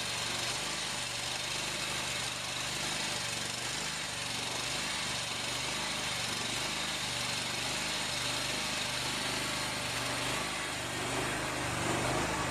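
John Deere gasoline engine running after a cold start in freezing weather, its note wavering in a regular rise and fall, a little louder near the end.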